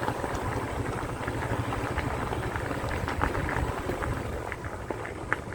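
Wind rumbling and crackling on the microphone on a moving motorcycle, with road and engine noise underneath.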